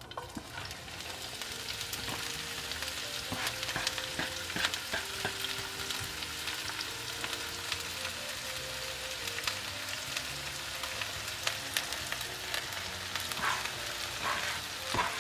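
Chopped chives dropped into hot oil in a frying pan and sizzling, starting suddenly with a dense hiss and steady crackling spits. A spatula stirs them near the end.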